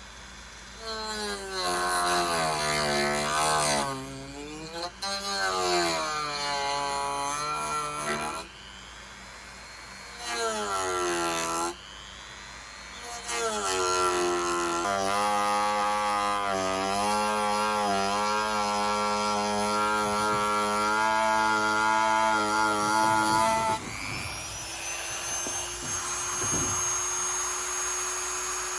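Dremel rotary tool with a cutting disc running and cutting perspex. Its whine dips in pitch and recovers as the disc bites into the plastic, stopping and restarting several times, then runs steadily. Near the end it changes to a thinner, higher whine.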